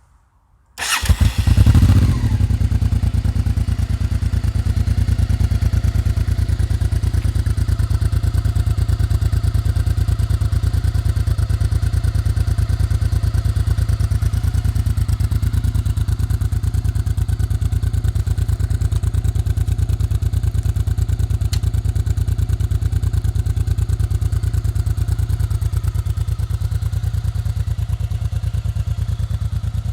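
Honda XRV 750 Africa Twin's V-twin engine starting about a second in, with a brief rev as it catches, then settling into a steady idle through the exhaust.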